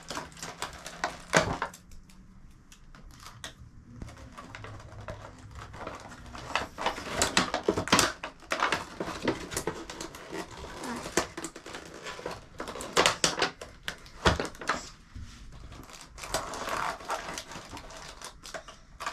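Packaging being handled while a box of stationery items is unpacked: irregular rustling, crinkling and clicks of plastic and paper, coming in clusters with short lulls.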